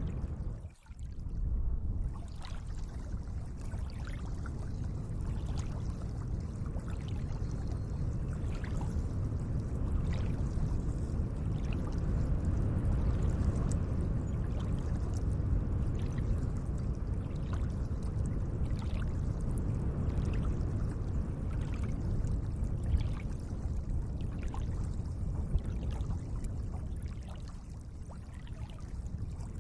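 Gentle lake water washing and lapping: a steady low wash with faint small splashes. The sound dips almost to nothing for a moment about a second in.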